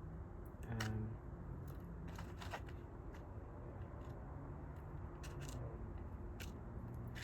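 Fingers picking old roots out of potting soil: scattered small crackles and rustles over a low steady hum.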